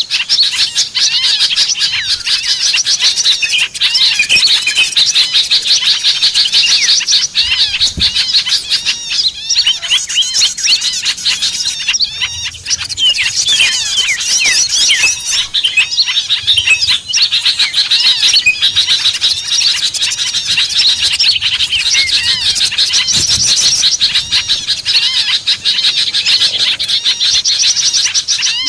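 Dense, noisy chorus of many small songbirds chirping and twittering over one another in quick, overlapping high notes: a bird-lure (pikat) recording of agitated small birds.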